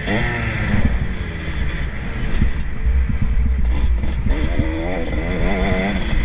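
Motocross bikes racing, their engines revving up and down in quick wavering sweeps as the throttle is worked, over a dense low rumble.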